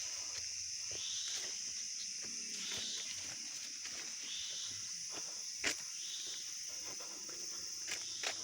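Insects keep up a steady high-pitched drone, with a second call repeating about every second and a half. Scattered footsteps and light knocks come through, with one sharp click a little past the middle.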